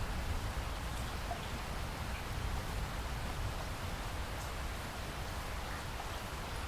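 Steady rain with a deep low rumble underneath and a few faint drop ticks.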